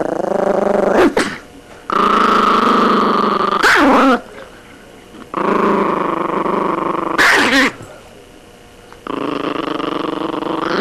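Angry, provoked dog growling in four long growls of about two seconds each, with short pauses between, each ending in a sharp bark.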